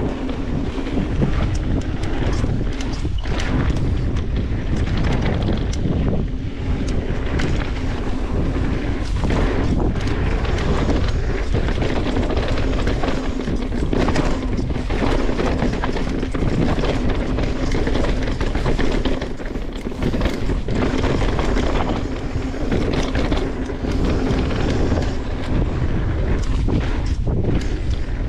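Mountain bike riding down a dirt trail: wind buffeting the microphone over the rumble of tyres on dirt, with frequent knocks and rattles from the bike over rough ground.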